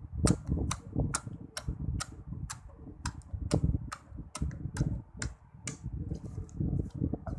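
Fingers poking a batch of slime, each poke giving a sharp pop, about two a second, with softer squishing near the end.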